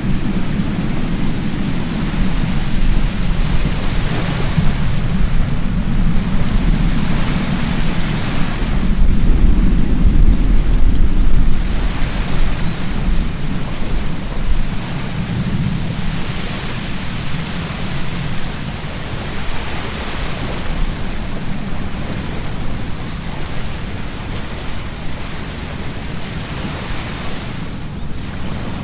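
Sea waves breaking on a beach: a steady rush of surf that swells every few seconds. Wind buffets the microphone underneath with a low rumble, strongest about ten seconds in.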